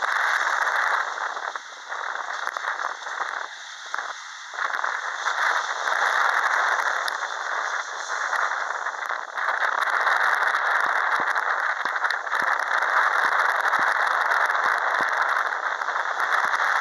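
Boeing 737-800's CFM56-7B jet engines at take-off thrust: a loud, steady rushing noise with a ragged crackle, dipping briefly a few times in the first five seconds.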